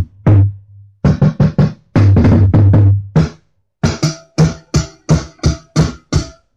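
Recorded drum kit played back through homemade three-way sealed-cabinet speakers: a quick run of drum hits with deep, ringing bass-drum thuds, then a steady beat of evenly spaced strikes about three a second.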